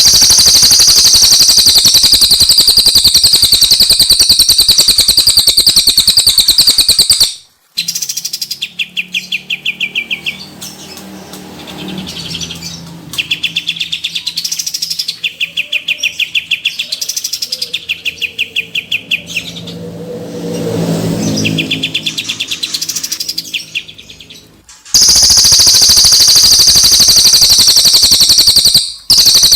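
Recorded songs of two songbirds, a cililin and a kapas tembak, in alternation. A loud, fast, unbroken high trill plays for about seven seconds. A lower trill follows in repeated bursts with short pauses, and the high trill returns near the end.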